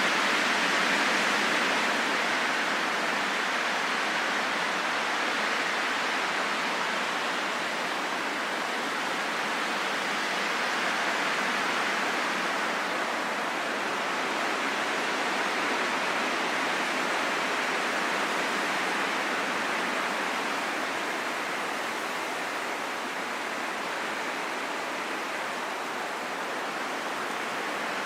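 Steady rushing wind, rising and falling slowly in strength.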